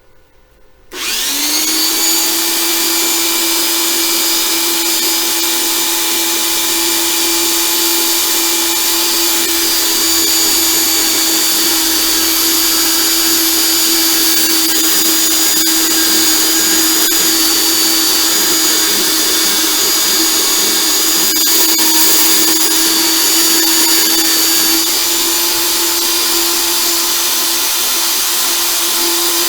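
Portable bandsaw starting about a second in, spinning up quickly, then running steadily while cutting small pieces of scrap steel.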